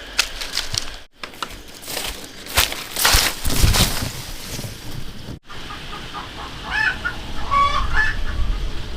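Chickens clucking, a run of short pitched calls in the second half, with scattered clicks and rustling before them.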